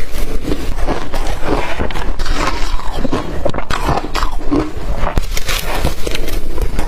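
Biting and chewing of blender-crushed ice, in dense, irregular crunches.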